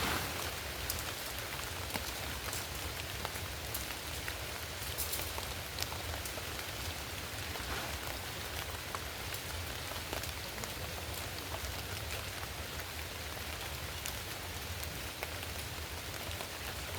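Steady rain falling, with many separate drop hits ticking close by over an even hiss.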